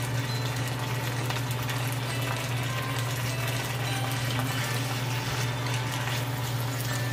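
Chicken and green beans sizzling in a wok as they are stirred and tossed with a wooden spatula, over a steady low hum.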